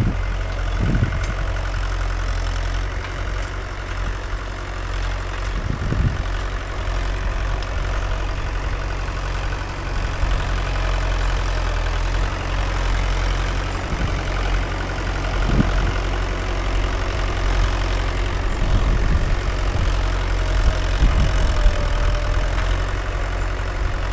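Mahindra 575 DI tractor's four-cylinder diesel engine running steadily while pulling a nine-tine cultivator, with a few brief thuds.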